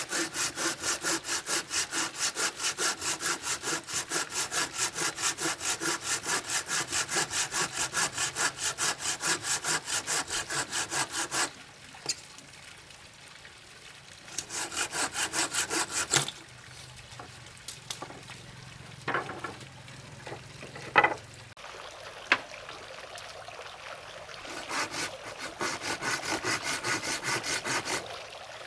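Handsaw cutting through wood in quick, even strokes, about four a second, in three bouts with pauses between, and a few sharp knocks on the timber during the longest pause.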